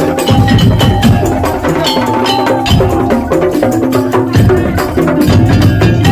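A Madurese tong-tong (ul daul) ensemble playing loudly: a dense, fast rhythm of wooden percussion strikes over deep drum beats, with held melodic tones.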